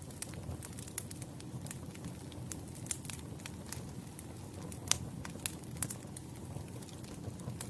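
Wood campfire burning and crackling: a steady low rumble of the flames with frequent sharp pops and snaps from the burning logs, the loudest snap about five seconds in.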